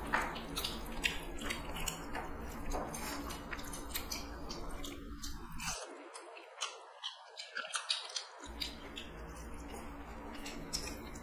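Close-up eating sounds of rice and curry eaten by hand: wet chewing and irregular mouth clicks and smacks, with the soft squish of fingers mixing rice.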